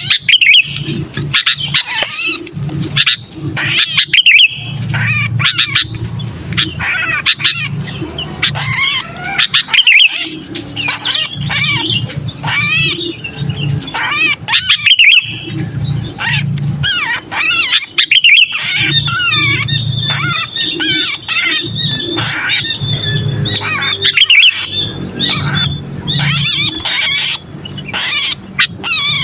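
Sooty-headed bulbul lure recording of the 'kejepit' type: the frantic, dense, repeated chirping and squealing of a bulbul in distress, as if caught. The calls run almost without pause, with a low pulsing hum beneath them.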